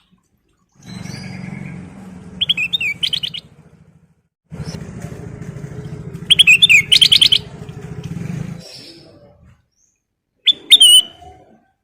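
Golden bulbul (kutilang emas) singing three short, loud bursts of rapid chirping notes. A low, steady motor hum runs under the first two bursts and stops before the third.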